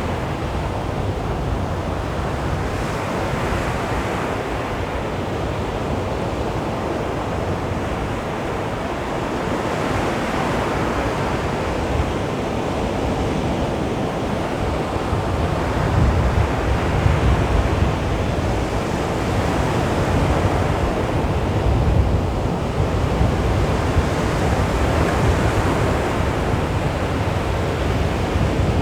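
Sea waves washing onto a beach in a steady surf noise, swelling and ebbing gently, a little louder in the second half.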